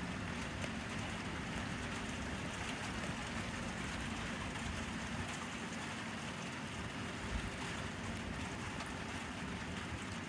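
Steady rain falling, an even hiss with scattered drops ticking, over a faint steady low hum.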